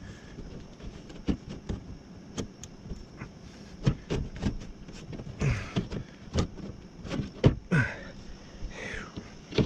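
Irregular clicks and knocks of metal parts being handled inside a car door, with a few brief scraping sounds.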